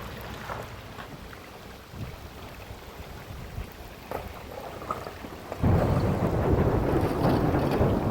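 Heavy rain falling with scattered drop ticks, then a sudden loud roll of thunder rumbling in about two-thirds of the way through and continuing.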